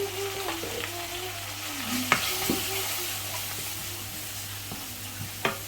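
Onion and spice masala frying and sizzling in a pan while a spoon stirs it, clicking against the pan a few times.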